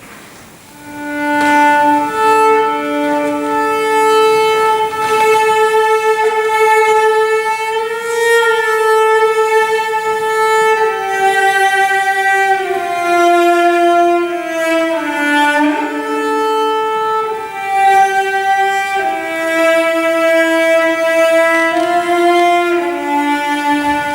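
Slow music on bowed strings: two lines of long held notes that step slowly down and up, starting about a second in.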